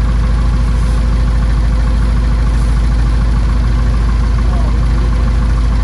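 Backhoe's engine running steadily at an even speed, with no change in pitch or load.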